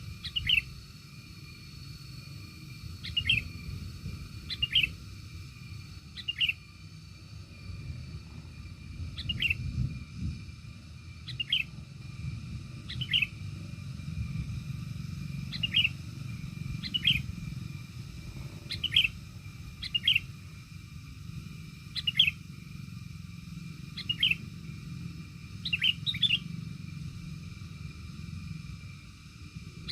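A bird calling over and over with short, sharp chirps, about one every two seconds, some in quick pairs. A steady low rumble runs underneath.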